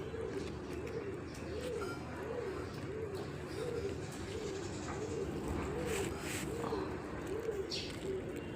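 Pigeon cooing over and over, a low rising-and-falling coo about every two-thirds of a second.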